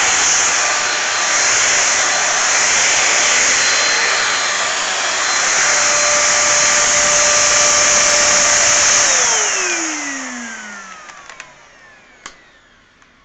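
Hoover Junior lightweight vacuum cleaner running steadily, then switched off about nine seconds in, its motor whine falling in pitch as it winds down. A few light clicks follow near the end.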